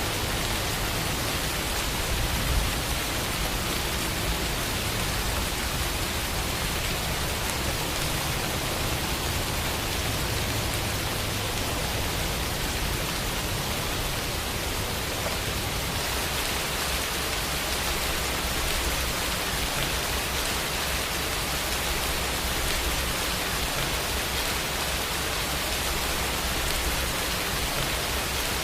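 Steady rainfall: an even, continuous hiss of rain falling on surfaces.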